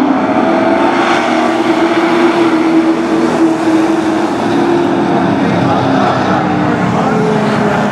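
Several race trucks' engines running together on a short oval, a steady, loud drone whose pitch drifts slightly as the field circles.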